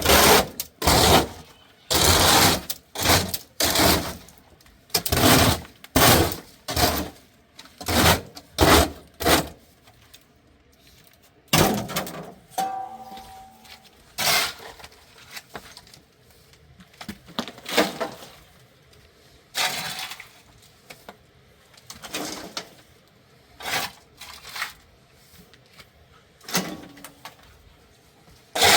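Repeated scraping strokes, in quick runs of about two a second, then fewer and more spaced out after about ten seconds.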